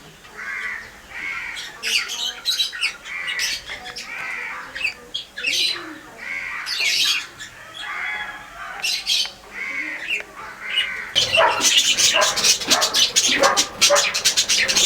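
Pet bird squawking over and over, short arched calls coming about every 0.7 s. About 11 s in, a louder, denser crackly sound takes over.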